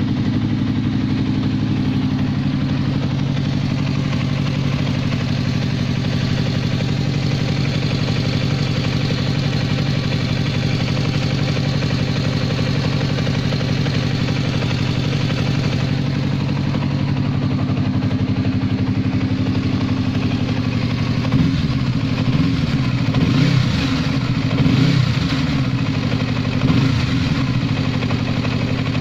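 Yamaha YZF-R25's 250 cc parallel-twin engine idling steadily, then revved in several quick throttle blips about three-quarters of the way through, the pitch rising and falling each time before it settles back to idle.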